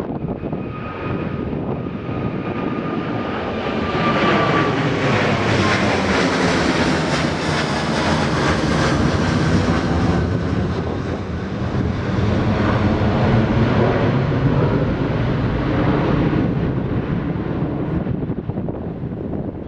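Jet airliner's engines passing close by: a loud rushing roar that builds to a peak around the middle and fades toward the end, with a high engine whine in the first few seconds.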